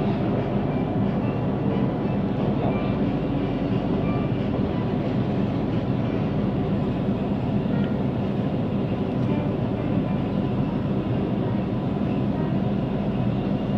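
Siemens Inspiro metro train running between stations, heard from inside the carriage: a steady rolling rumble of wheels on the rails with faint steady tones over it, a rolling noise the recordist finds unusual for this train.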